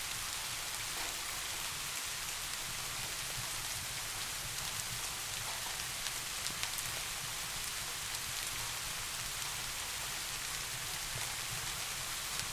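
Steady rain falling on a surface, an even hiss of drops, with a few sharper ticks about six seconds in.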